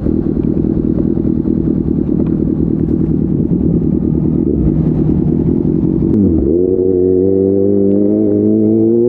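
Kawasaki ZX-6R 636's inline-four engine through an SC Project slip-on exhaust: a loud, uneven low rumble for about six seconds. Then the note dips briefly and climbs steadily in pitch as the engine pulls up through the revs.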